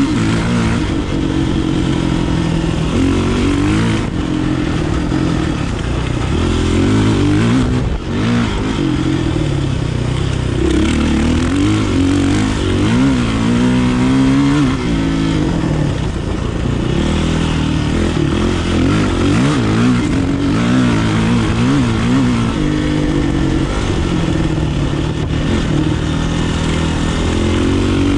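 Kawasaki KLX450R's single-cylinder four-stroke engine being ridden, its revs rising and falling over and over with the throttle and gear changes.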